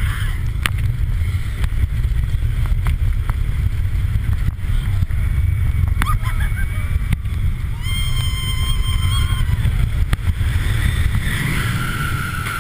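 Roller coaster ride heard from a rider's seat: heavy wind buffeting on the microphone and the train's rumble. A rider lets out one long held scream about eight seconds in, and another voice cries out near the end.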